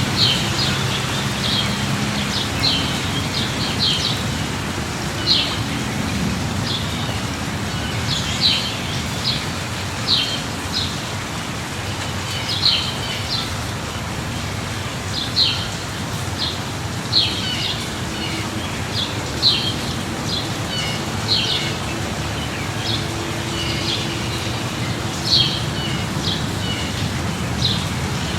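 Steady light rain with birds chirping repeatedly through it, short high chirps every second or so, over a low steady rumble.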